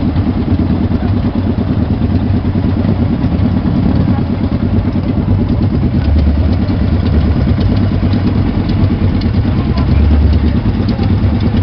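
Many motorcycle engines idling and creeping along together in a traffic jam, a dense, steady rumble with no single bike standing out.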